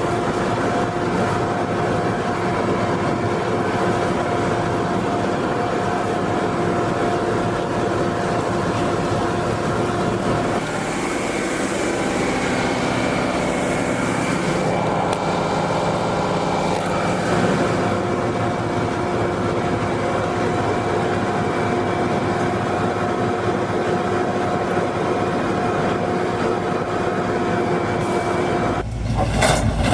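Heizohack wood chipper driven by a Massey Ferguson tractor, running steadily with a whine over the engine while it chips branches. For several seconds in the middle the pitch shifts and a hiss joins in, and near the end the sound changes abruptly to a deep rumble with knocks.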